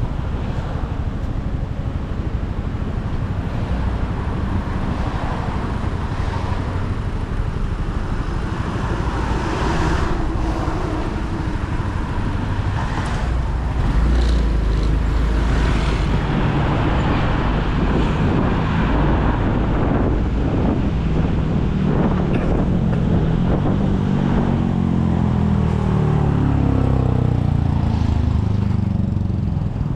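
Motorcycle engine running under way, with wind and road noise. Toward the end the engine note climbs and falls as the bike accelerates and eases off.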